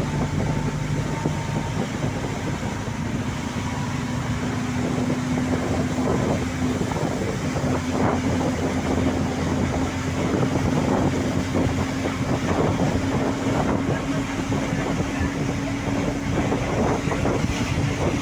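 A vehicle's steady motor hum, slowly rising in pitch, over a continuous rushing noise.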